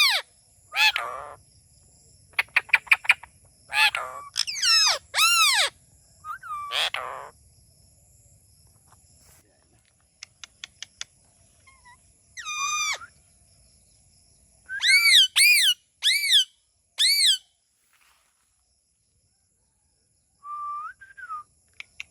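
Indian ringneck parrot giving repeated short, arched squawking calls, with quick runs of sharp clicks between them. The calls come in bunches, four in a row about two-thirds of the way through, then a pause and one short, lower whistle near the end.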